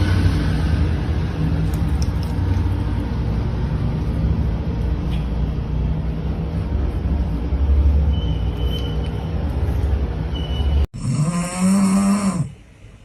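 A steady low rumble, like a moving vehicle, for about eleven seconds, then after an abrupt cut an animal's single drawn-out call that rises and falls in pitch near the end.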